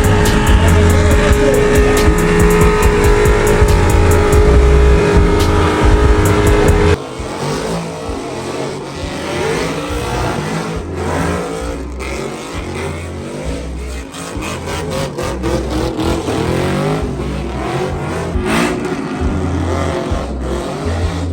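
Vehicle engines revving hard over loud music with a thumping bass. The level drops abruptly about seven seconds in, after which the revs rise and fall repeatedly.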